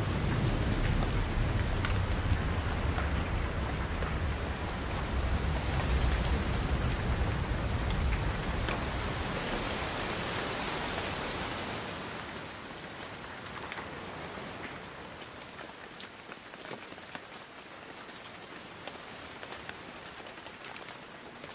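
Rain falling, a steady hiss with scattered drop patter. A low rumble under it fades out about twelve seconds in, and the rain is quieter after that.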